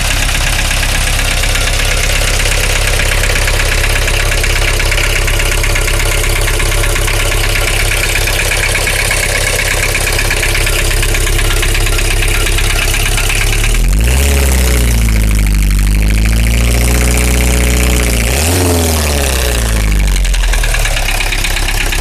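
Nissan CD17 four-cylinder diesel idling with a steady knock, which the owner traces to the fourth cylinder because cutting that injector almost silences it. About fourteen seconds in it is revved up, held for a few seconds, then drops back to idle.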